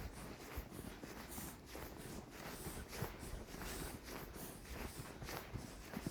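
Footsteps of people walking on a snowy path, about two steps a second, with a low rumble of handling or wind on the microphone.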